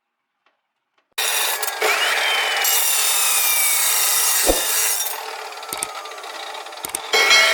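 A power tool cutting or grinding, its motor pitch jumping up and then slowly falling under load. It eases off for a moment and starts again just before the end.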